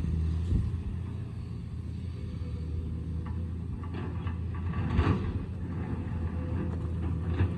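Excavator's diesel engine running steadily, with a few short knocks and clanks about half a second in, around five seconds in and near the end.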